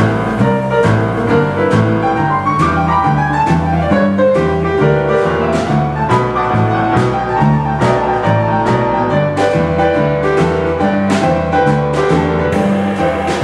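Boogie-woogie piano playing: a rolling, repeating bass figure under steady struck chords in the upper register.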